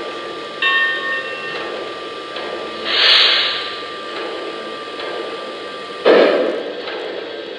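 Lionel Legacy B6sb O scale model steam locomotive's onboard sound system playing a steady steam hiss, with two short, louder bursts of hiss about three and six seconds in.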